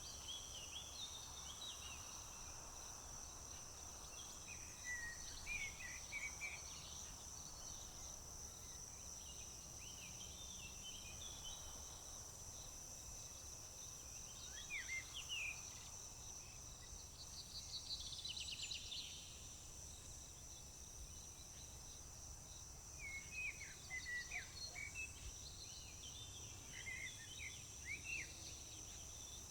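Insects keep up a steady high-pitched trill while small birds chirp on and off, with a quick buzzy trill a little past the middle and a cluster of chirps near the end.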